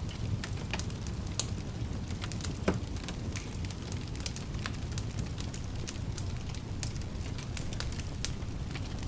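Wood fire crackling: scattered sharp pops and snaps over a low, steady rumble of the flames, with one louder pop a little under a third of the way in.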